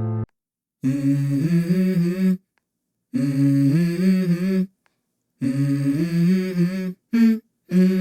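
A voice humming a short stepping melody three times, each phrase about a second and a half with silent gaps between, then two brief notes near the end.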